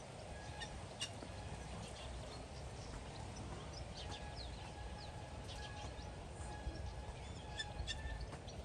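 Faint, scattered bird chirps and short whistled calls over a steady low outdoor rumble.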